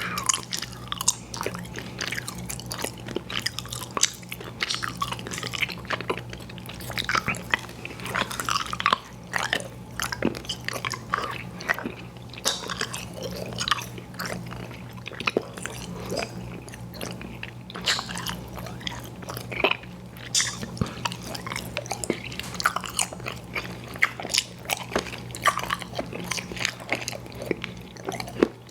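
Close-miked chewing of chewy fruit candy, with a rapid, irregular run of wet smacks and clicks.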